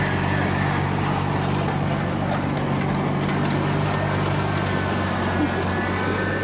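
Small riding lawn tractor engine running steadily, with an even, rhythmic beat.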